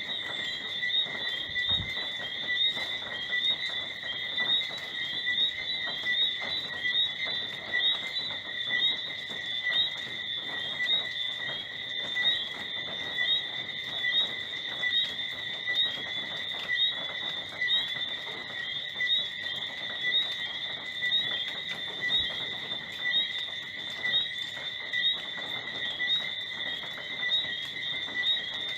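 Tropical rainforest night chorus of insects and frogs: a steady high-pitched trilling drone, with louder chirps pulsing more than once a second.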